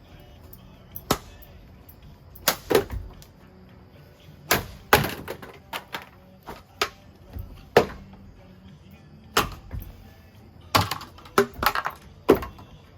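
Ceiling fan running at full speed while its blades strike and break: a string of irregular sharp knocks and cracks over a faint motor hum, and one blade snapping at the neck where it joins the mount.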